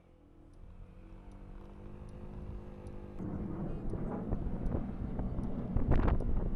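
Small moped engine running steadily, then growing louder as the bike gets under way, with wind buffeting the microphone near the end. Faint regular ticking sounds throughout.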